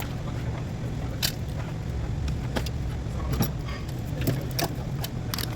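Scattered metallic clinks and clicks of hand tools and engine parts being handled, about one a second, over a steady low rumble.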